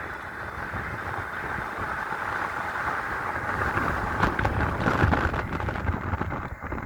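Wind rushing and buffeting over the microphone with a low road rumble while riding a fast electric bike. It builds louder over the first five seconds or so as the bike picks up speed, then eases off near the end.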